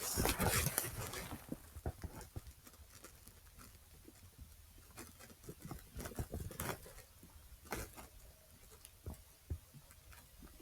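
Irregular footsteps and rustling of a hand-carried audio recorder, with a louder burst of handling noise in the first second or so.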